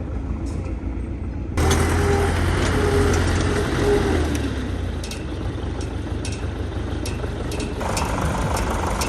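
Old tractor's engine running steadily with a low, even hum. It becomes abruptly louder about one and a half seconds in.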